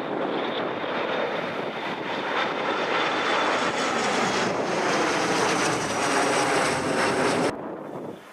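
Airliner engines passing close by, the noise swelling as the plane goes past, then cutting off suddenly about seven and a half seconds in.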